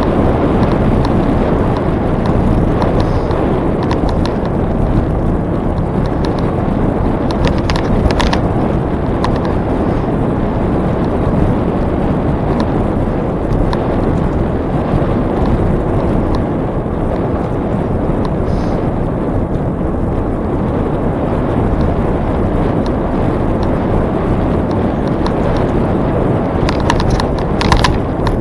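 Steady wind rushing over the microphone of a moving bicycle, with the rumble of tyres on the trail. Short clicks and rattles come through about eight seconds in and again near the end.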